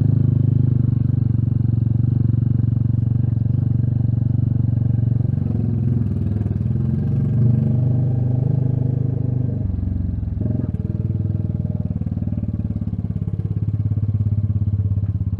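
Royal Enfield Meteor 350's single-cylinder engine running steadily while riding, with a brief break in the engine note about ten seconds in.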